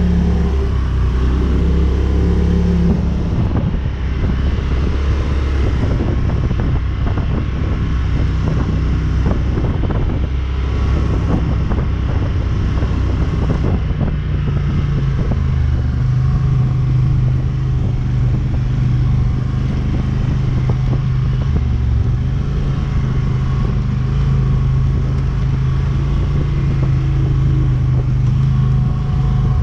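ATV engine running under changing throttle while riding a rough trail. Frequent short knocks and rattles from the machine jolting over bumps come through, most of them in the first half.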